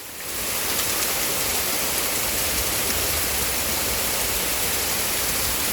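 Heavy rain pouring down, surging to a louder, steady downpour a moment after the start.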